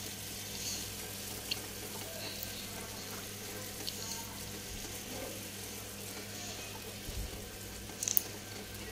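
Small pieces of chicken frying in oil in a nonstick wok: a steady, quiet sizzle while a wooden spatula stirs them, with a few light clicks and a short cluster of clicks about eight seconds in.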